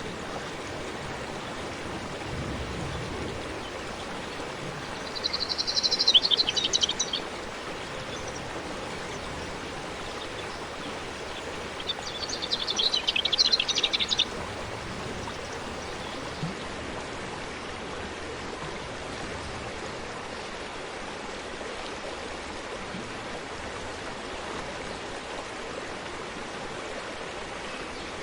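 Forest stream flowing with a steady rushing of water. A songbird sings two short, high trilling phrases, about five seconds in and again about twelve seconds in.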